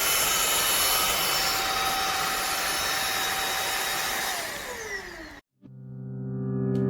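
Cordless stick vacuum cleaner running with a steady motor whine, then switched off about four seconds in, its pitch sliding down as the motor spins down. Soft music fades in after a short silence near the end.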